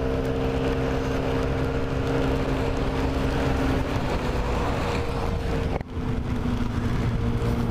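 Honda Ruckus scooter's small single-cylinder engine running steadily while riding, its pitch easing down slightly about four seconds in. There is a brief sharp drop-out just before six seconds.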